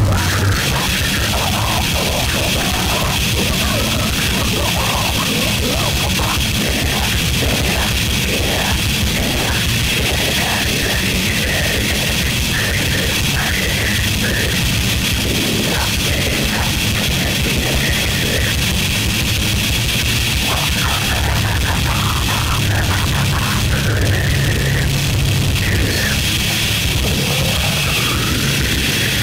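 Gorenoise track: a dense, harsh wall of distorted noise over a fast, steady low pulse, with a sweep rising near the end.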